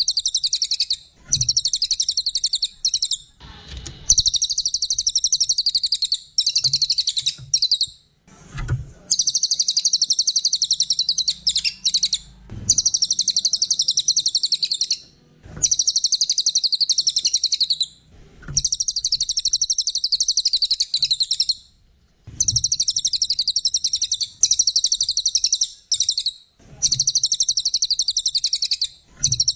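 A cililin songbird singing: very fast, high trills repeated in bursts of one to four seconds with short pauses between them.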